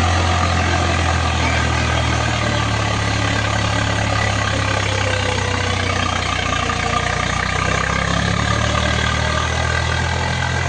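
Diesel tractor engine running steadily at low speed, a deep hum whose pitch shifts slightly a couple of times.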